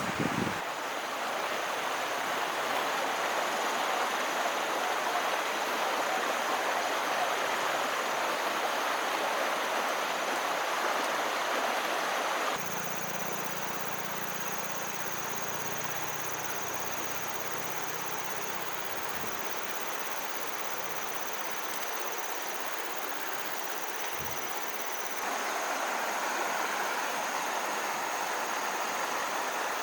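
Steady outdoor background noise like rushing water, with a thin high insect-like buzz on top; the background changes abruptly twice, about 12 and 25 seconds in.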